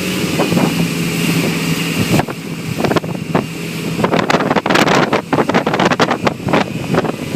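Motorboat engine running with a steady low hum, and wind gusting on the microphone, which gets heavier and choppier over the second half.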